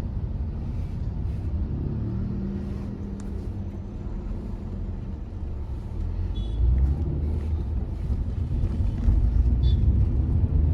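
Hyundai i20's 1.2-litre engine and tyre noise heard from inside the cabin while driving, a steady low rumble that grows louder about six seconds in.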